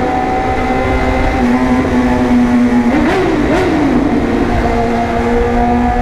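BMW S1000RR's inline-four engine running at a steady high pitch. About three seconds in, two quick throttle blips each rise and fall in pitch, with a sharp pop at each peak.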